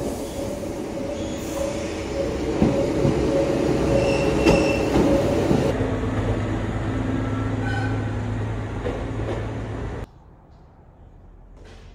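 Diesel railcar at the station: a steady high-pitched squeal over rumble for the first half, then a steady low engine hum. The sound starts suddenly and cuts off abruptly about ten seconds in.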